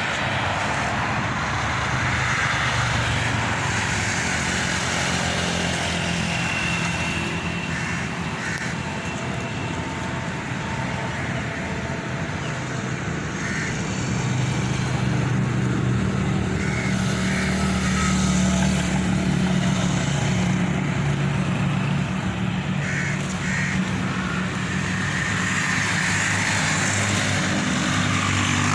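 Tractor engine running steadily, its pitch shifting a little now and then.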